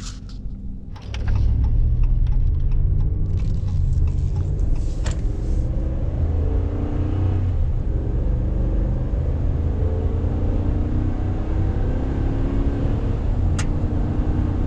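Engine and road rumble of a vehicle being driven, heard from inside the cab, with the engine note drifting up and down. A few clicks and rattles come first, and the rumble sets in suddenly about a second in.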